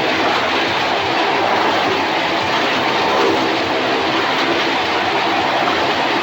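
Motorcycle engines running at steady revs as they circle the wooden wall of a well-of-death pit, a loud, continuous rumbling drone.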